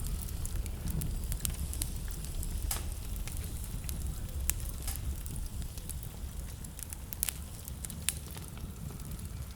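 Wood fire burning in a fireplace, crackling and popping with irregular sharp snaps, a few a second, over a steady low rumble.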